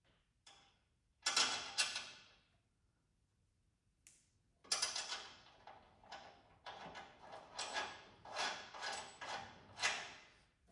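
Hand work on plow-blade parts: two sharp knocks a little over a second in, then a run of irregular clanks and scrapes from about five seconds in, as brackets and hardware are handled and refitted.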